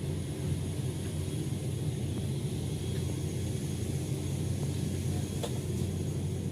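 Steady low drone of a turboprop airliner's engines and propellers heard from inside the passenger cabin, with a faint high whine above it.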